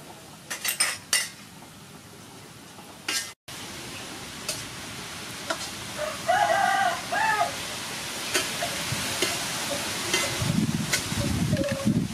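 Beef and hoisin sauce sizzling in a wok as they are stirred with a metal spatula, the frying hiss building after about three seconds. A few sharp utensil clicks come near the start. A rooster crows once about six seconds in, and a low rumble joins near the end.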